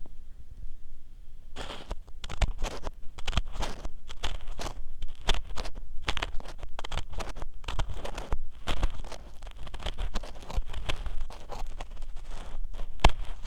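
Ear pick scraping and scratching in the ear of a binaural dummy-head microphone, very close to the microphone: a quick, irregular run of scratchy strokes starting about a second and a half in, with one sharp click near the end.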